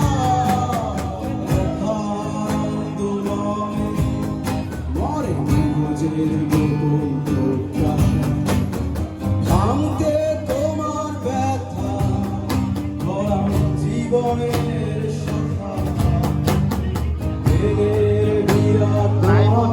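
A song sung by a solo voice over guitar accompaniment, with a steady rhythmic strum.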